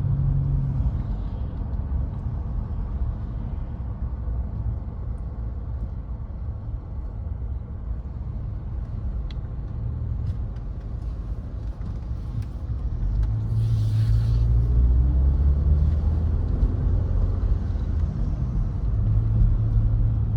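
A car driving, heard from inside: a steady low rumble of engine and road noise that grows louder about two thirds of the way through.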